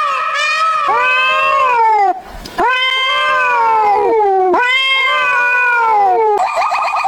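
Cat meowing in long, drawn-out calls: a few short meows, then three long wails that each rise and then fall in pitch. Near the end a buzzy, rapidly pulsing tone takes over.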